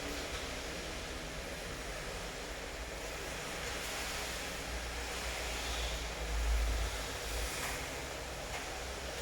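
Steady rain falling, an even hiss, with a low rumble swelling briefly about six and a half seconds in.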